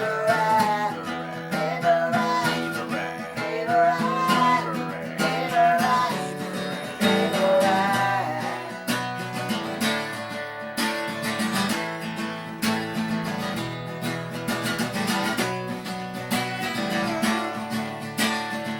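Acoustic guitar music: strummed chords, with a melody line moving over them.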